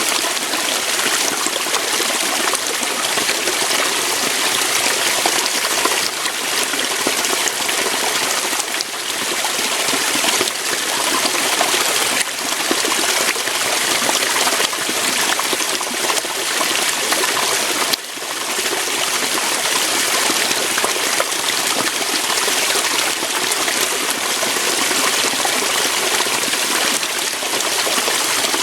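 A waterfall: water flowing steadily over rocks, an even hiss of splashing water.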